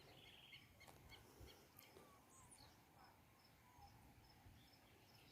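Near silence with faint outdoor ambience: insects trilling and chirping steadily, with a few faint bird calls.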